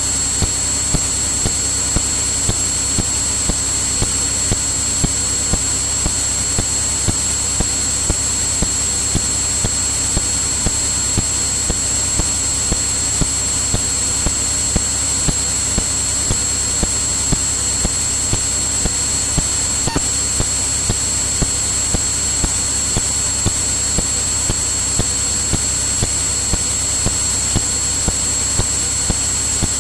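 Cirrus single-engine piston aircraft's engine and propeller drone in the cockpit, steady through the recording, with a constant high-pitched whine and small regular ticks.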